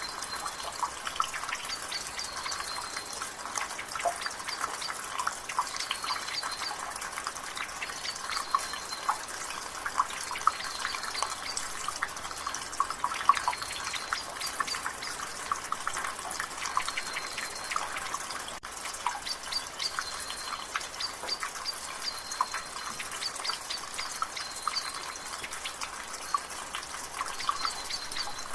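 Water dripping from a rain gutter in quick, irregular drops over the steady hiss of light rain, with a bird's short high chirps repeating every second or two.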